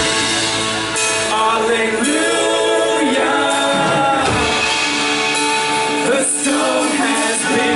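A worship band playing a song with sung vocals.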